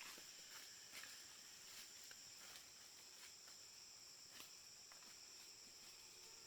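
Faint, steady, high-pitched chirring of insects such as crickets, with a few soft clicks.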